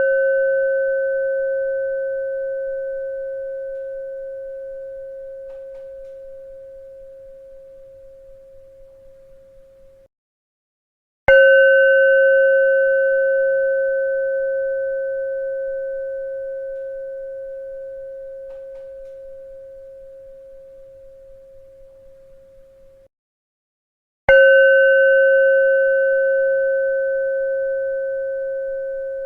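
A bell ringing on one low-pitched tone with fainter higher overtones, fading slowly. It cuts off sharply about ten seconds in, and after a second of silence it is struck again; the pattern repeats with another strike near the end.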